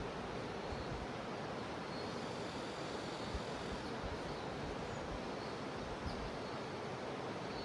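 Steady rushing of a jungle river, with a faint thin high insect drone from cicadas behind it.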